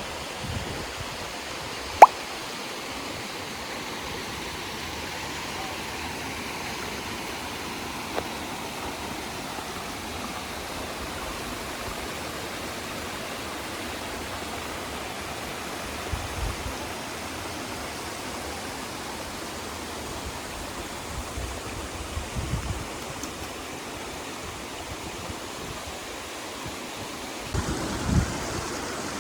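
Steady rush of water from Aber Falls (Rhaeadr Fawr), with one sharp click about two seconds in.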